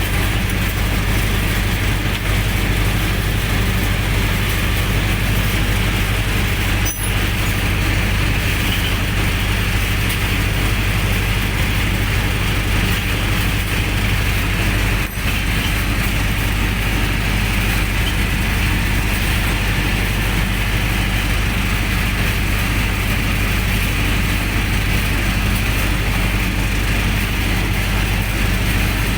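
Generator set's engine running steadily with a deep, even hum. Two brief clicks, about seven and fifteen seconds in.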